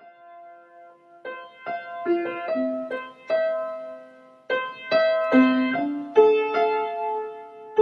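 Solo piano music: single notes struck one after another in a slow melody, soft at first and louder from about a second in.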